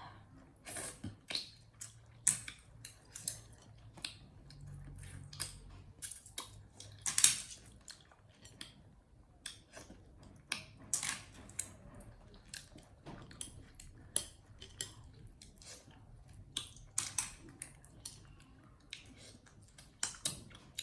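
Scattered sharp clicks and taps at an irregular pace, the loudest about seven seconds in.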